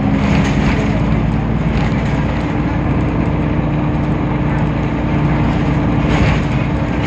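DAF PR 228 diesel engine of a Temsa Avenue LF city bus running with a steady drone, under road and body noise.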